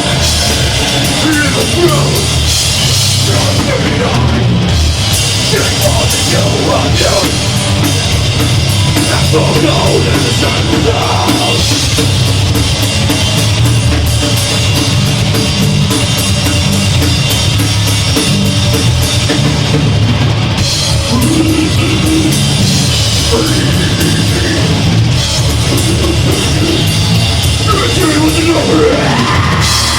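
Deathgrind band playing live, loud and unbroken: fast drums, heavily distorted guitars and bass, with harsh vocals at times.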